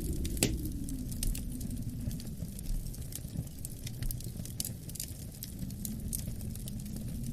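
Wood fire crackling with irregular small pops, one sharper pop about half a second in, over a steady low wind rumble that slowly swells and eases.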